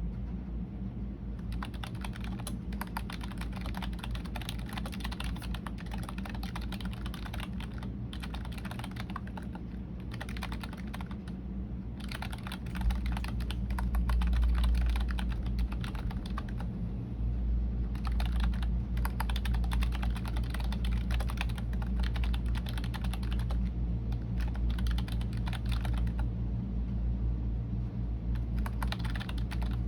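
Typing on a computer keyboard: quick runs of key clicks broken by short pauses, over a steady low hum that grows louder a little before halfway through.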